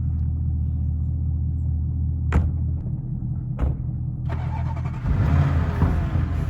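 Car engine running steadily with a low drone, with two sharp knocks a little over a second apart near the middle. From about two-thirds of the way in, a rushing hiss joins it as the car gets going.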